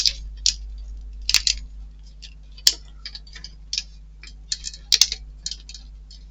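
Irregular light clicks and taps of small model-kit parts and tools being handled and set down on a work surface, over a steady low hum.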